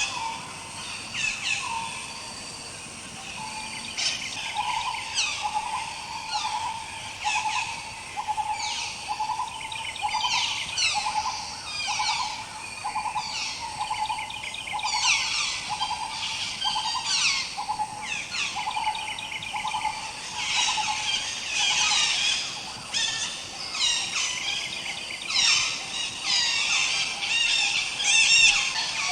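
A dense chorus of many songbirds chirping and whistling, with a lower note repeating steadily underneath from about four seconds in.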